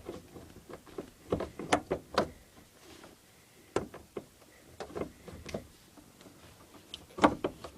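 Gear shift lever of a 1969 Volkswagen Super Beetle being moved between gears: scattered clicks and clunks, bunched about a second and a half in, again around four to five seconds, and near the end.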